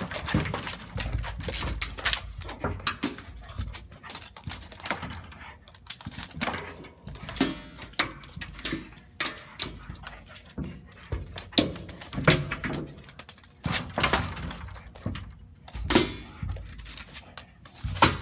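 Water deer bumping and butting against a glass window, making irregular knocks and thumps among scuffling and breathing. A few louder thumps come about two-thirds of the way through.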